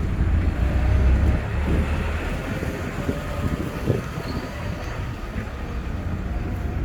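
A 4x4 truck on the move: a steady low rumble of engine and road noise.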